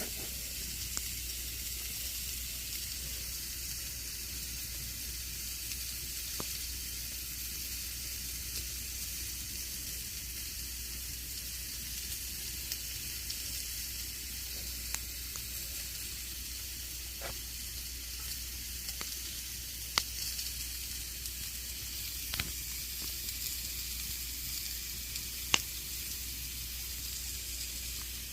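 Campfire burning with a steady hissing crackle and a few sharp pops of burning wood scattered through it; the loudest pops come about twenty seconds in and near the end.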